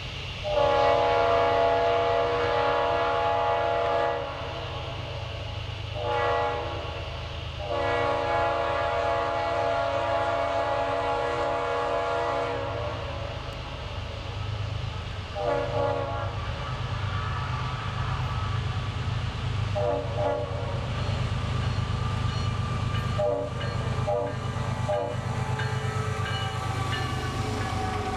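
Train horn sounding a series of chord blasts: a long one, a short one, a longer one, then several short toots, over the steady low rumble of the train running.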